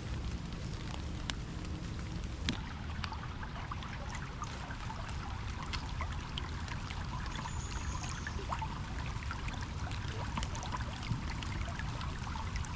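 Rain on a wooded trail: many scattered drops tap sharply close by over a steady low rush.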